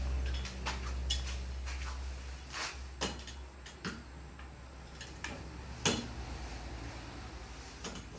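Scattered clicks and knocks of wooden workpieces and hand tools being handled at a workbench, over a low steady hum that weakens after about three seconds; the sharpest knock comes about six seconds in.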